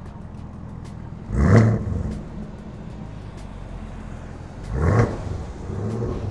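2018 Chevrolet Camaro ZL1's supercharged 6.2-litre LT4 V8 idling and revved twice: a short rising rev about a second and a half in and another at about five seconds, each dropping straight back to idle, with a smaller rise of the revs near the end.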